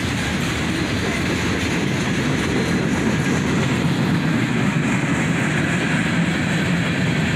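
Freight train's covered hopper cars rolling past close by: a steady noise of steel wheels running on the rails.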